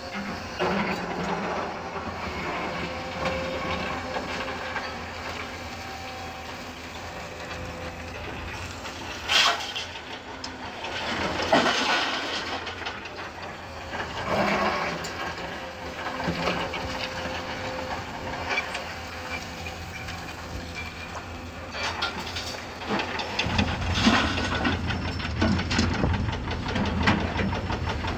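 Hyundai 220 excavator's diesel engine running steadily, with several clattering impacts of loaded material, the sharpest about nine and a half seconds in. The low engine rumble grows louder about two-thirds of the way through.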